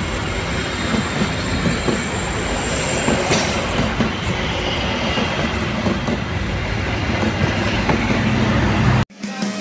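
Passenger coaches rolling past close by, a steady rushing clatter of steel wheels on the rails with a thin high squeal over the first three seconds as they take the curve. The sound cuts off abruptly near the end.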